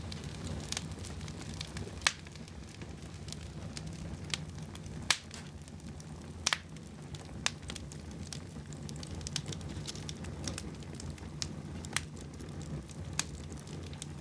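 Fire in a fireplace crackling: a steady low rush of flames with scattered sharp pops, the loudest about two and five seconds in.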